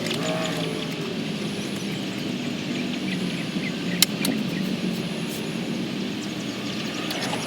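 Steady drone of an engine, with one sharp click about four seconds in.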